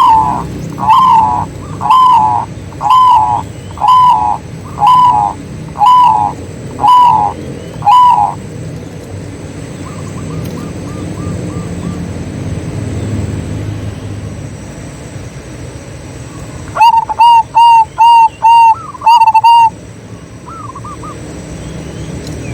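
Zebra doves (perkutut) cooing: a run of nine loud notes about one a second, then a faint quick trill, then a rapid burst of short notes near the end, over a steady low hum.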